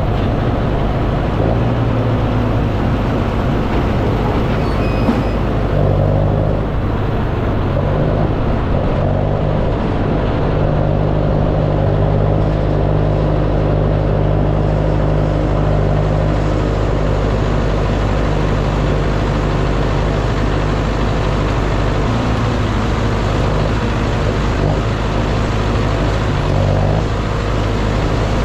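Tractor engine running steadily at a fixed throttle, its note shifting slightly a few times as the load changes.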